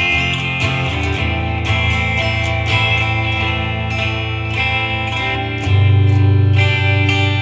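Acoustic guitar strummed in a steady down-up rhythm, moving through a chord progression. The chord changes about a second in, and again near the end, where it gets louder with more bass.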